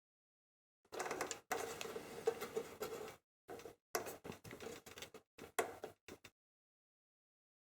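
Scraping, rattling and clicking of toaster parts being handled and taken apart by hand: a longer scraping stretch, then a run of short clicks and knocks that stops about six seconds in.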